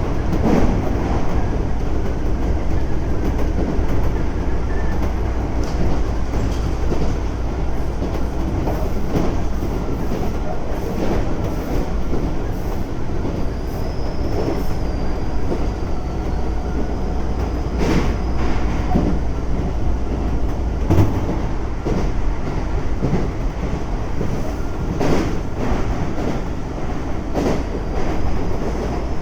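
Keisei 3400 series electric train running at speed, heard on board: a steady rumble with wheels clacking over rail joints every few seconds. A thin high whine from its chopper control comes and goes, around the middle and near the end.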